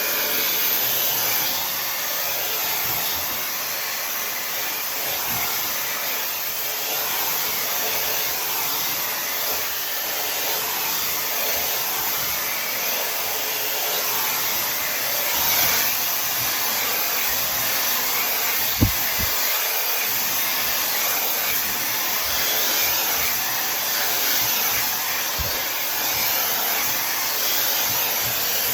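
Tymo Air Hype hair dryer running steadily, blowing a hissing rush of air. A brief knock cuts through about two-thirds of the way in.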